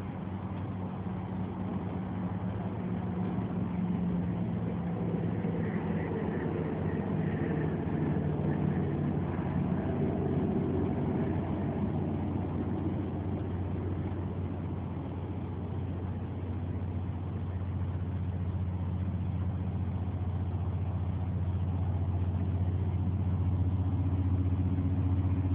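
A car engine idling with a steady low hum, getting slightly louder toward the end.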